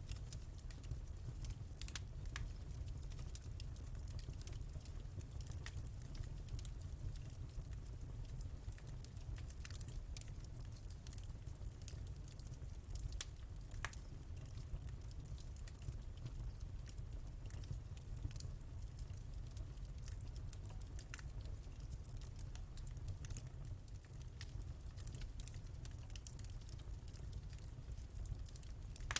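Wood fire burning in a fireplace, with irregular sharp crackles and pops over a low, steady rumble of flame.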